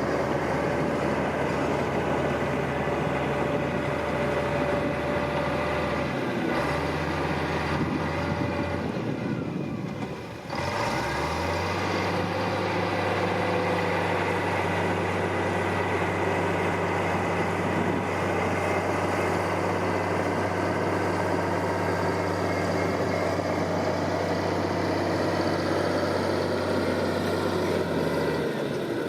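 Diesel engine of heavy earthmoving machinery running steadily at work. The sound dips briefly about ten seconds in, then carries on at a steady pitch.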